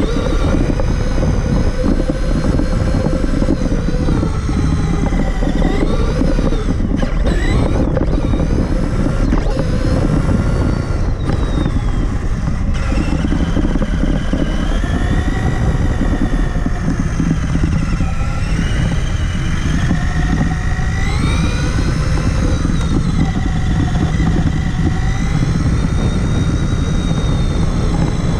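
Traxxas Summit 1/10-scale RC monster truck driving, heard from a camera on its body: the electric motor and gearbox whine rises and falls with the throttle over a constant rumble and rattle from the chassis and terrain.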